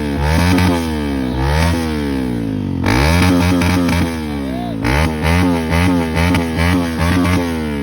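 Motorcycle engines revved again and again, the pitch climbing and dropping in a few longer rev sweeps, then a run of short, quick throttle blips.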